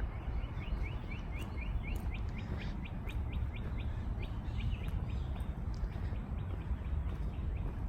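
A bird calling a rapid series of short repeated chirps, about four a second, fading out after the first half, over a steady low rumble.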